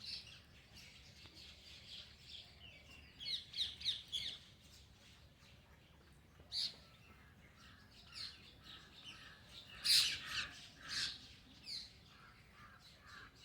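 Several birds chirping and calling over one another. A quick run of short notes comes about three seconds in, and a single loud call about ten seconds in.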